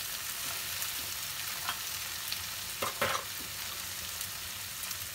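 Chopped tomatoes, cashews and onion sizzling in hot oil in a nonstick kadai, stirred with a wooden spatula that scrapes against the pan a few times around the middle.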